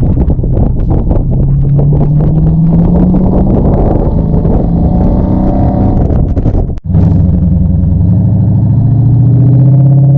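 Dodge Charger V8 pulling through an SLP LM1 cat-back exhaust that still runs catalytic converters. The engine note rises as the car accelerates, holds, then rises again near the end, with a sudden brief break in the middle. Knocks and rattles from the car going over a rough road sound over the first couple of seconds.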